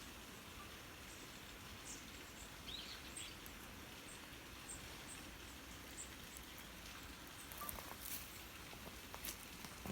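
Quiet outdoor ambience with faint, short, high bird chirps repeating about once a second, plus a few soft ticks near the end.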